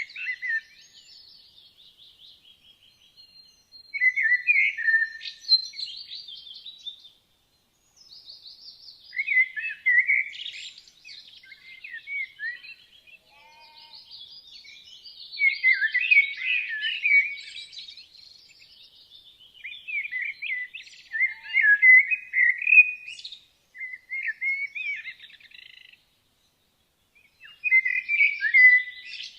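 Woodland songbirds singing: warbled, chirping phrases a second or two long, repeating every few seconds with short pauses between.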